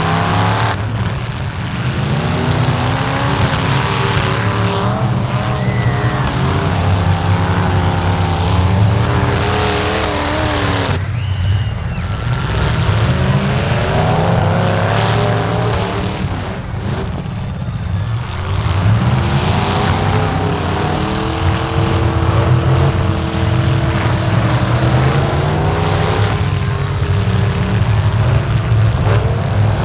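Several truck engines revving hard, their pitches rising and falling over one another, with dips about eleven and seventeen seconds in.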